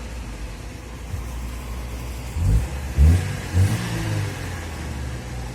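Car engine idling, then revved in three short throttle blips about halfway through.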